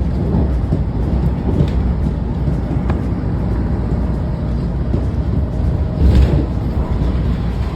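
Washington Metro railcar running at speed, a steady rumble of wheels and running gear heard from inside the car, with a brief louder swell about six seconds in.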